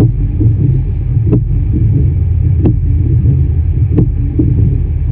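Steady low rumble of a vehicle, heard from inside, with a sharp windshield-wiper stroke about every 1.3 seconds as the wipers clear heavy snow.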